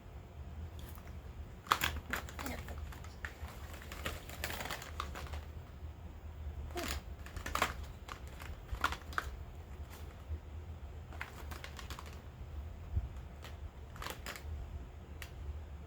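Irregular taps, clicks and short crinkles of cosmetic packaging and product cases being handled during an unboxing, over a steady low hum.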